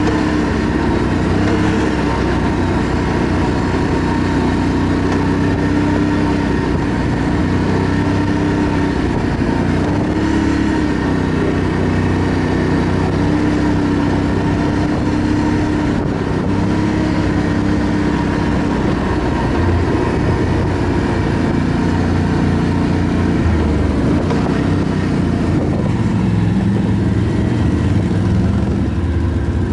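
ATV engine running steadily under way, its pitch rising and falling a little as the throttle changes.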